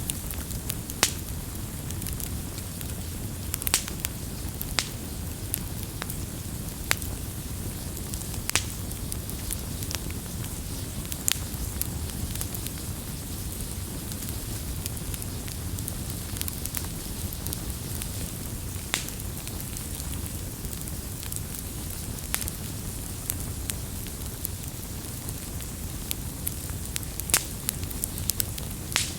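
Wood campfire burning: a steady low rumble of flames with sharp, irregular pops and crackles every second or few.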